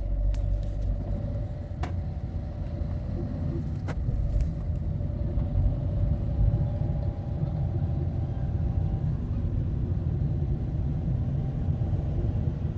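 Steady engine and road rumble of a moving van heard from inside the cab, with two sharp clicks about two and four seconds in.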